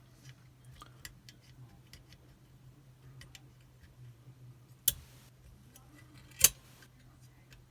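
Small metallic clicks and taps from handling a Chubb Detector five-lever lock and its parts, with two louder sharp clacks, about five and six and a half seconds in.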